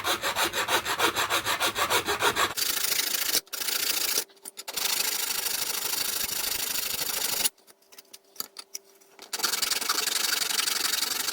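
A file rasping against the edges of 3D-printed plastic mask pieces to make them sit flush: quick, even strokes at first, then a steadier continuous rubbing with a couple of short breaks and a pause about halfway through.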